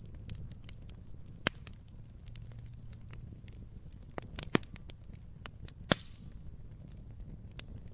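Wood fire crackling: scattered sharp pops and snaps at irregular intervals over a low steady rumble of the flames, with three louder pops about a second and a half, four and a half, and six seconds in.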